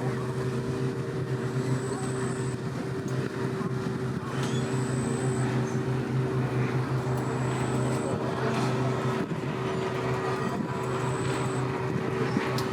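Steady engine hum with a few fixed low tones, and a faint high-pitched tone that comes and goes about every three seconds.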